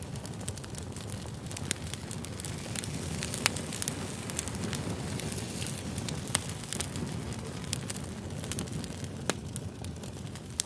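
Fire crackling: a steady low rush with many sharp, irregular pops and snaps, a few standing out louder.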